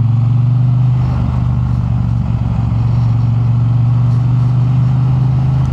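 Triumph Bonneville T100's parallel-twin engine running at steady revs while the motorcycle cruises, a constant low drone with no rise or fall in pitch.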